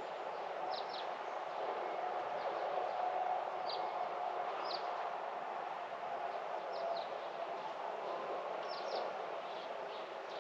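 Small bird giving short, high chirps, often in pairs, every second or two, over a steady distant background noise with a faint wavering hum.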